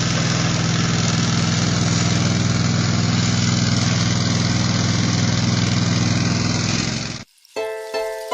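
A steady, loud low hum with hiss, like an engine or motor running, that cuts off suddenly about seven seconds in. Plucked, harp-like music notes start near the end.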